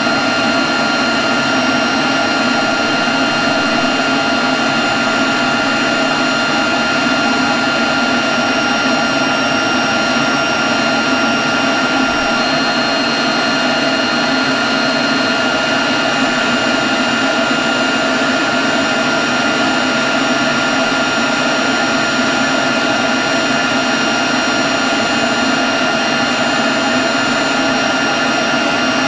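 Leaf blower running steadily at constant speed: a rush of air with a steady high-pitched whine over it, and no change in throttle.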